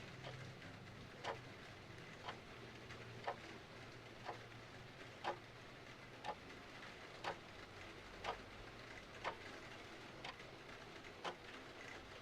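Clock ticking about once a second, sharp regular ticks over a faint steady hiss.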